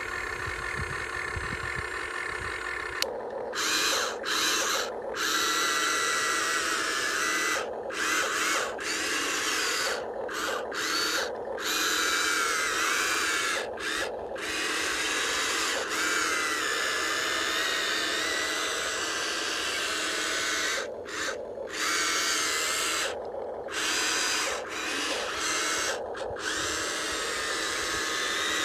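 Small electric motors of a radio-controlled hydraulic excavator toy whining, stopping and starting again many times as it is worked, the pitch wavering with the load.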